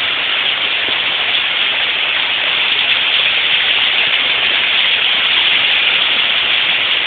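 Heavy rain pouring down in a steady, loud downpour during a sudden rainstorm.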